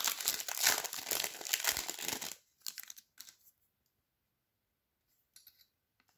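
Foil trading-card pack being torn open and crinkled for about two seconds, followed by a few faint rustles and then near silence.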